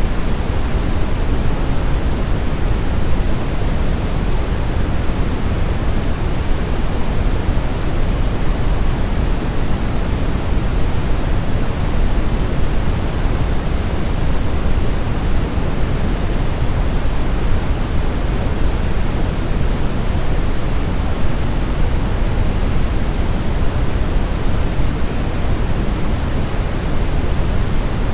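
Steady, unchanging brown noise: a deep, even hiss weighted toward the low end, synthesised as a sleep aid.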